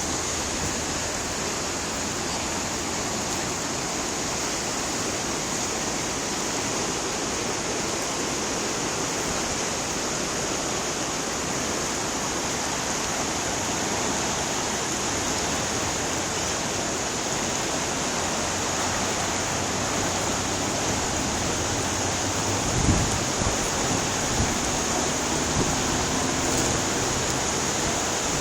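Steady rush of fast-flowing floodwater, an even hiss with no let-up. A brief low thump comes near the end.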